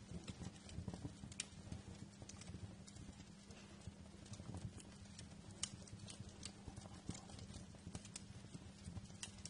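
Wood fire crackling in a fireplace: irregular sharp pops and snaps, several a second, over a low steady rumble of burning.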